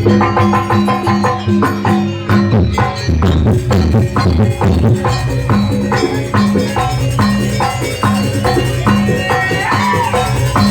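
Live jaranan gamelan music: a steady beat of struck metal tones ringing over held low gong tones, with a rattling, shaker-like percussion on top.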